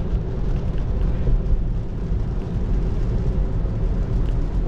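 Steady cabin noise inside a 2024 Tesla Model 3 electric car driving through heavy rain: the low rumble of tyres on the wet road mixed with rain on the car.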